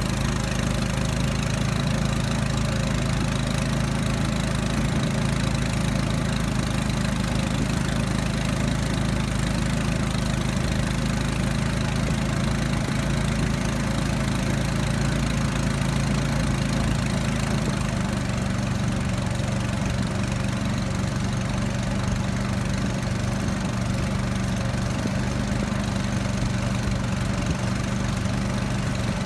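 Outboard motor of a Li River raft running steadily at a constant speed, its pitch shifting slightly about two-thirds of the way through.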